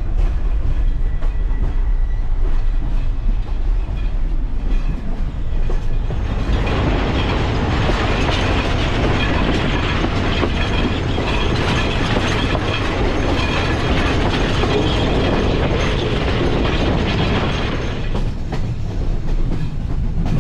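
Sri Lankan Railways passenger train running along the line, heard from on board: a steady rumble of wheels on rails with some clatter. It grows louder and harsher about six seconds in and eases again near the end.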